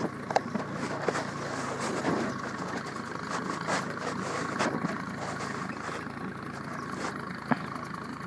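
Ford tractor engine running steadily while driving its PTO-powered brush hog as it mows, with a few sharp ticks over the steady hum.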